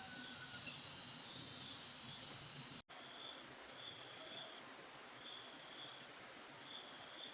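Insects calling, cricket- or cicada-like: a steady high-pitched trill throughout, with a short break about three seconds in. After the break, a second call of short chirps repeats about once a second.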